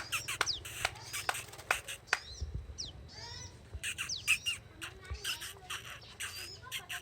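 Prinia (prenjak) giving rapid, sharp chirping calls: many short high notes in quick runs, with a brief break a few seconds in.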